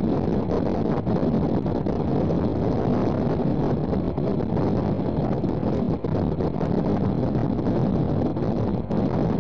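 Steam-hauled passenger train running at speed, heard from an open carriage window: a steady wind rush buffeting the microphone over the train's running noise.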